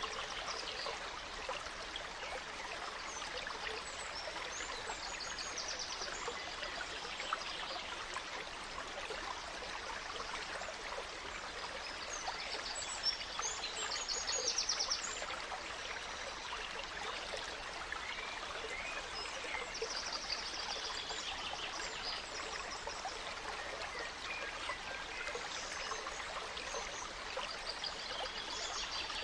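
A small stream trickling and babbling steadily, with forest birds chirping and singing in short phrases over it, most busily about halfway through and again near the end.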